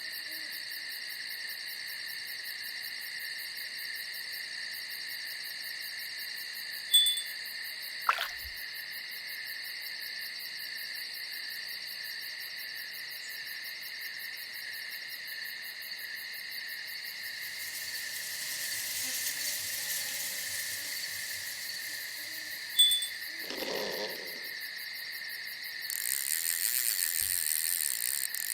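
A steady high chirring of night insects such as crickets, with faint low owl hoots. Two short, sharp clicks stand out, one about seven seconds in and one about sixteen seconds later, and a rise in hiss comes near the end.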